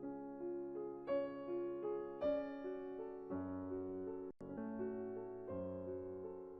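Background piano music: a gentle melody over held chords, with notes changing about twice a second. There is a brief dropout a little over four seconds in.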